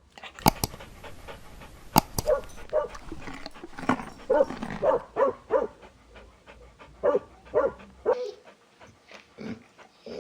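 Dog giving a string of short, pitched barks, with two sharp clicks in the first two seconds.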